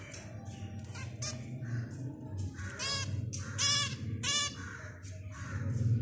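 Caged birds calling: a few short chirps, then three loud nasal calls about 0.7 s apart near the middle, over a steady low hum.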